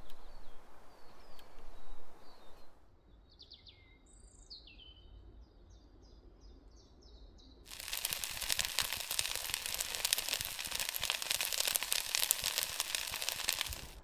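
A small bird calling with a quick run of repeated high chirps over a quiet background. About two thirds of the way in, a loud, even hiss with a fine crackle starts abruptly.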